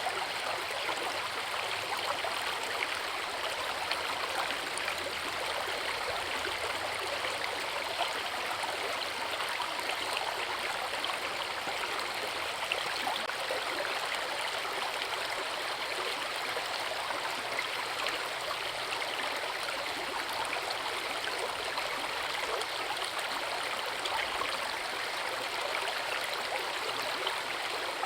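Forest river water rushing and splashing over a waterfall, a steady, unbroken flow.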